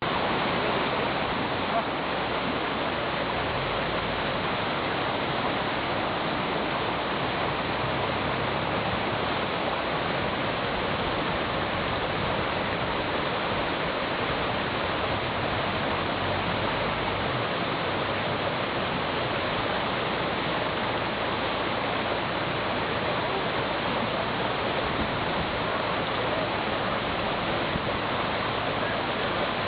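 River water rushing: a steady, even rush of flowing water that holds unchanged throughout.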